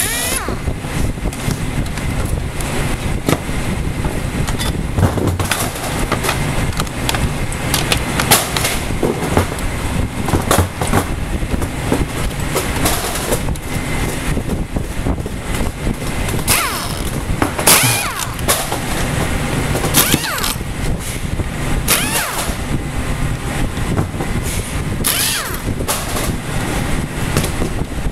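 Sharp metal clicks and scrapes from a power supply's casing and parts being pried and pulled apart by hand, over a steady low engine-like rumble.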